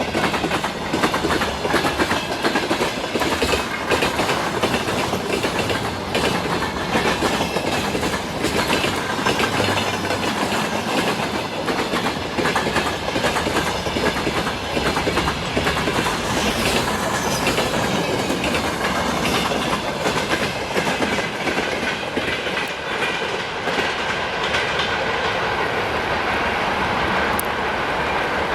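Freight train wagons rolling past, their wheels clattering rapidly over the rail joints; the clatter eases into a smoother, steady rumble in the last few seconds.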